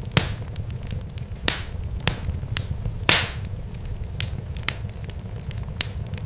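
Irregular sharp crackles and pops at uneven gaps, a few louder than the rest, over a steady low rumble.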